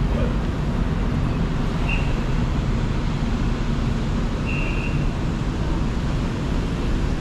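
Train running, a steady low rumble with two brief high tones about two and four and a half seconds in.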